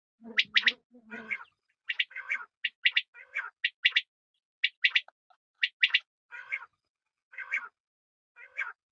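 Female quail calling: short, sharp notes mostly in quick pairs, alternating with rougher, wheezy calls, repeated about once a second.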